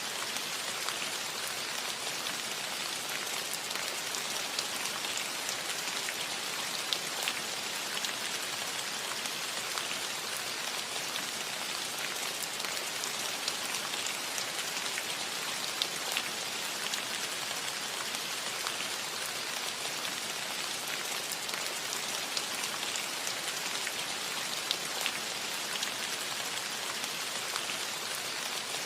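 Steady rain falling on a roof, an even patter with many individual drops ticking sharply over it.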